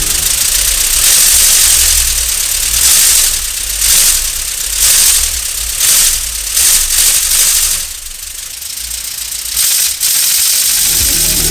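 Lego pneumatic inline-four engine running on compressed air: a loud hiss of exhausting air with a plastic rattle, swelling in several short surges, dropping quieter about eight seconds in and picking up again near the end.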